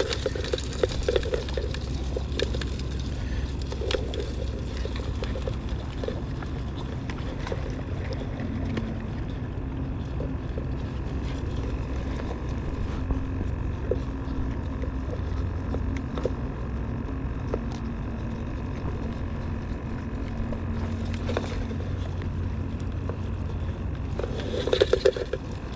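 Steady low drone of a boat engine running, with faint scattered clicks over it.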